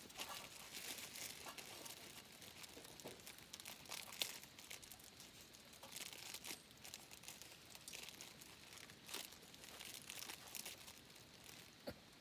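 Faint crinkling and rustling with scattered sharp clicks.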